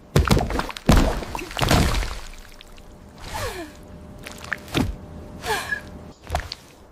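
AI-generated food ASMR sound effects: a run of sharp clicks and crackles with short hissing bursts, and a squeaky tone falling in pitch about three and a half seconds in.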